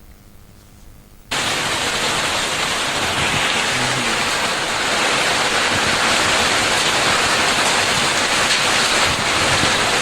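A steady rushing hiss of water that cuts in sharply about a second in after a faint start.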